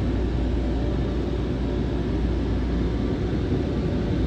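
Automatic car wash machinery running, heard from inside the car's cabin: a steady rushing noise with a deep low rumble under it.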